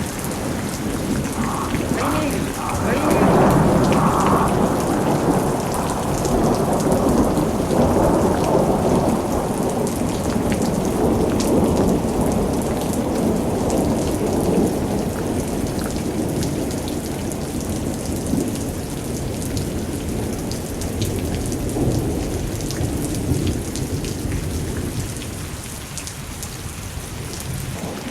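Recorded thunderstorm: steady heavy rain with rolling thunder that swells a few seconds in and again around eight seconds, then eases off near the end.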